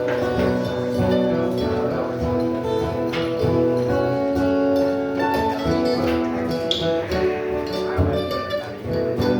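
Instrumental music led by acoustic guitar, plucked and strummed, with no singing.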